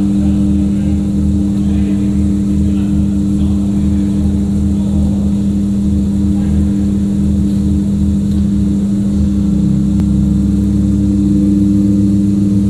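Mazda RX-7 FD's rotary engine running at a steady, unchanging speed, with an even tone over a choppy low rumble.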